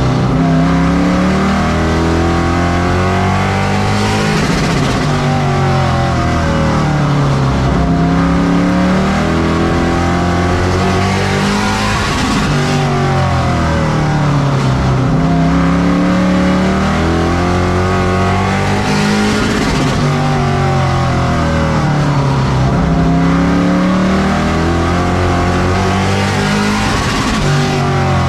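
Pro Truck racing engine at racing speed around a short oval, its pitch climbing along each straightaway and dropping off into each turn, about every seven to eight seconds, over a steady rushing noise.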